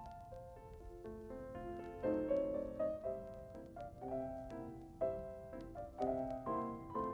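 Background piano music: a lively melody over chords, with notes changing several times a second.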